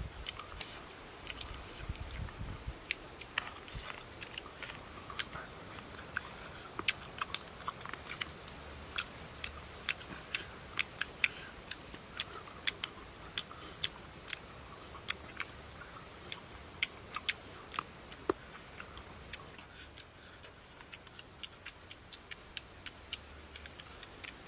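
Someone biting and chewing cooked rat: many short, sharp, irregular crunches.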